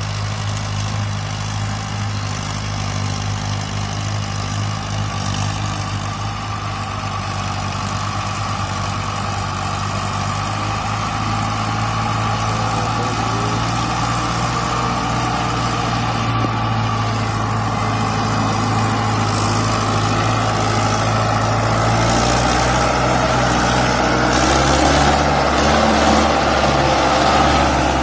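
Tractor engine running steadily, with a slight change in pitch a little after twenty seconds in and growing a bit louder near the end.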